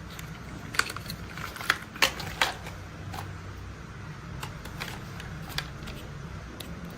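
Scattered sharp plastic clicks and clacks from toy construction vehicles being handled, a cluster of loud ones in the first two and a half seconds and a few fainter ones after, over a low steady hum.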